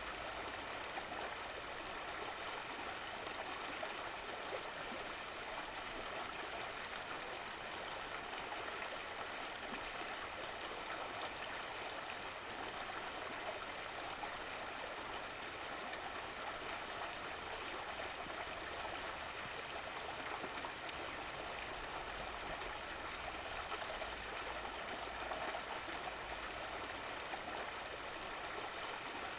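Running stream water flowing steadily, with a trickling, gurgling wash.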